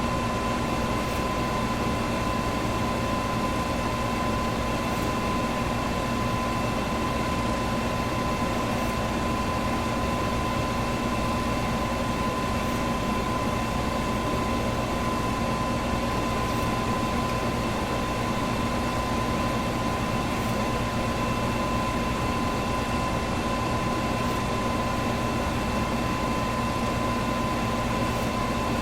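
Electric fan running steadily: an even rush of air with a constant hum tone in it and a faint high tick about every four seconds.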